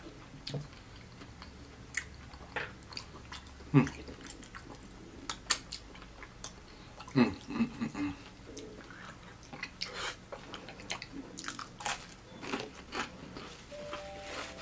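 Close-up chewing and biting of fried chicken and cheesy macaroni: irregular wet smacks and crunchy bites, with the sharpest ones about four and seven seconds in.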